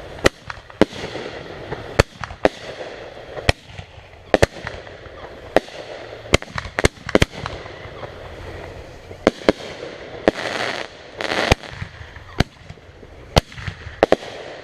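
Consumer fireworks going off: a run of sharp bangs at uneven intervals, some close together, some a second or more apart. Two short rushing hisses come near the end.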